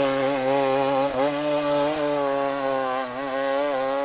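Two-stroke dirt bike engine running at steady high revs under way, its pitch holding with slight dips as the throttle eases.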